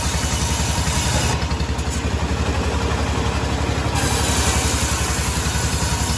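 Sawmill engine running steadily, with a regular low pulsing beat of about five a second.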